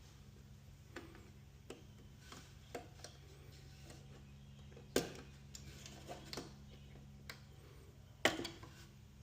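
Irregular clicks and knocks of handling, with two louder knocks about five and eight seconds in, over a steady low hum.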